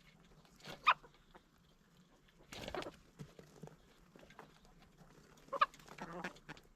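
Chickens clucking, with short sharp calls about a second in and again near the end, and a brief rustling noise between them.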